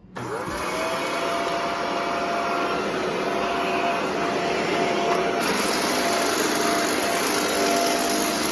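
Shark Rotator Professional NV650 upright vacuum switched on: the motor spins up with a quickly rising whine, then runs steadily over a loud rush of air, its hose freshly cleared of a sock clog. About five seconds in the hiss turns brighter.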